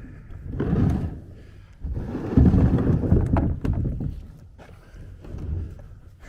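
Kayak being launched into floodwater: the hull shifting and water sloshing in two bouts, a short one about half a second in and a louder, longer one from about two seconds, with a few knocks.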